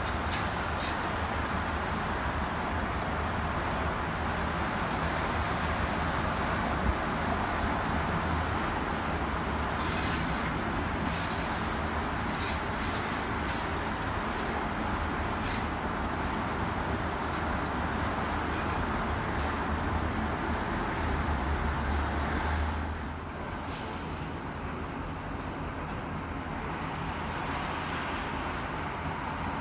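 City ambience of steady road traffic and gusting wind, with a low rumble that swells and then drops off sharply about 23 seconds in.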